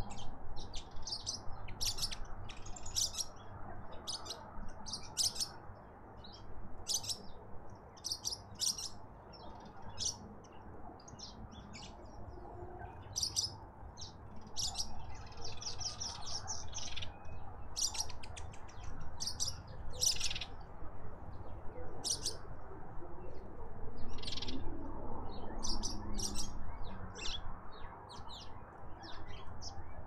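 Birds chirping: many short, high chirps scattered throughout, with a fast trill about sixteen seconds in, over a steady low background rumble.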